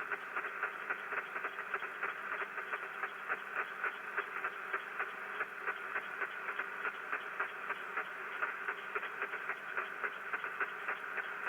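Rain static (QRN) from a Yagi antenna heard through an HF receiver: steady hiss squeezed into a narrow band, with rapid crackling clicks at about three to four a second. The operator takes the crackles for small spark discharges on or near the antenna.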